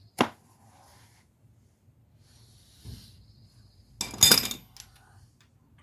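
Metal parts and tools being handled: a sharp click just after the start, then a short rattle of metal clanks with a brief ringing about four seconds in, with quiet breathing between.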